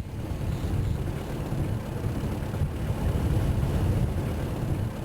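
Steady rumble of a moving vehicle, with rough low noise of wind on the microphone.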